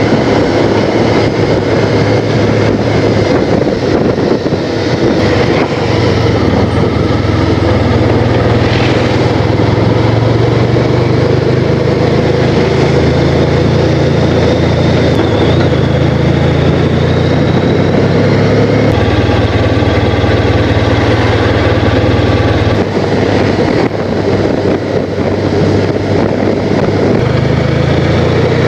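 Honda Crosstourer's V4 engine running at road speed under heavy wind rush on the action camera. The engine note shifts several times as speed or gear changes.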